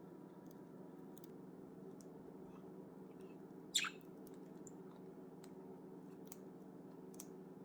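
A budgerigar gives one short, sharp chirp that falls steeply in pitch, about four seconds in, amid scattered faint clicks, over a steady low hum.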